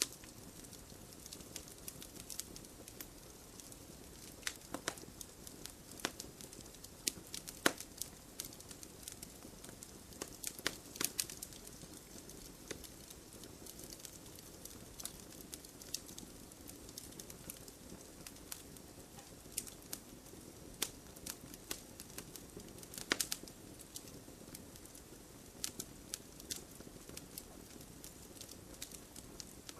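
Wood fire burning in a fireplace: a soft steady hiss of flames with irregular sharp crackles and pops, a few louder snaps among them.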